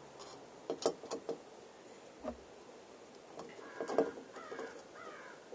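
A few light clicks and knocks as parts and tools are handled while the chain guide is fitted to the bike's crank. From about the middle on, birds call repeatedly in the background.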